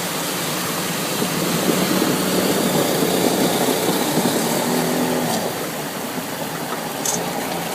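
Car driving through deep floodwater, heard from inside the closed cabin: a steady rush of water and road noise over the engine, swelling a little in the middle.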